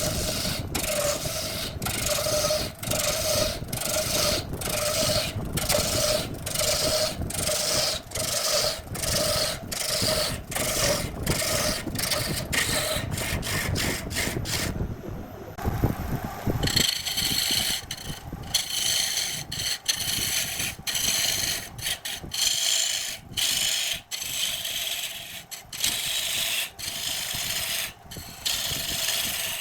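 Wood being cut or scraped on a lathe: a rough rasping of the tool against the turning wood in quick repeated passes over a steady hum. The rasp drops out briefly about halfway through, then resumes brighter.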